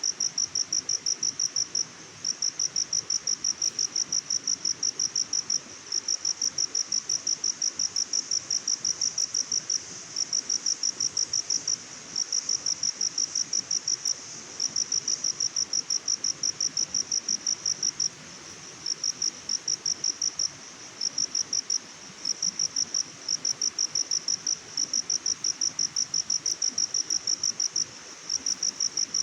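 Cricket chirping: a high, fast, even trill of pulses in long runs, broken by short pauses every few seconds, over a faint steady hiss.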